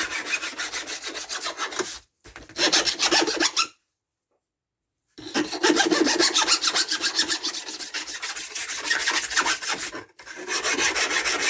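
A metal file dressing the burrs off the rails of a Stihl MS170 chainsaw's laminated guide bar, in runs of quick back-and-forth scraping strokes. The strokes stop briefly about two seconds in and pause for about a second and a half near the middle.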